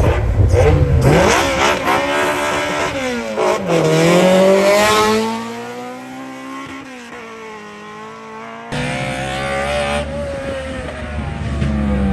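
Built Honda four-cylinder race car accelerating hard: the engine's pitch climbs, drops at a gear change about three and a half seconds in, then climbs again and slowly falls away as the car pulls off. A sudden loud rush of low noise comes in past the middle, with another engine note falling near the end.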